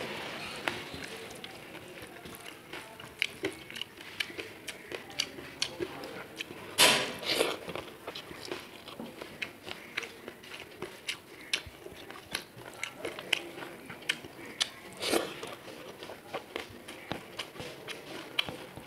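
Close-miked chewing of a mouthful of rice and vegetables, full of small wet mouth clicks and smacks, with two louder wet smacks about seven and fifteen seconds in.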